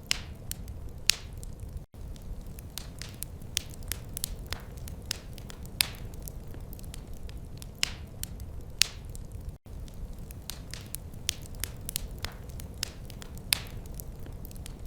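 Wood fire crackling in a fireplace: irregular sharp pops and snaps of varied loudness over a steady low rumble of the burning fire. The sound briefly cuts out twice, near two seconds in and near ten seconds in.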